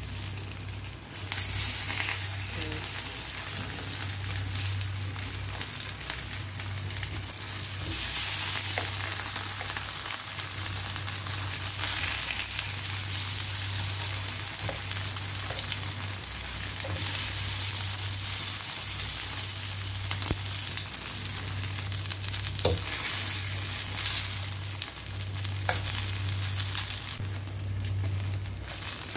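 String-bean batter pancakes frying in a little oil in a nonstick pan: a steady sizzle, with a few light clicks of a plastic spatula against the pan as they are flipped and lifted. A low steady hum runs underneath.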